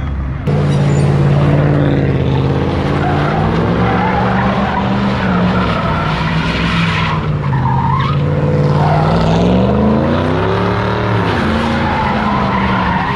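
A car's engine held at high revs with tyres screeching, as in a burnout or donuts; the engine pitch swings up and down repeatedly and starts abruptly about half a second in.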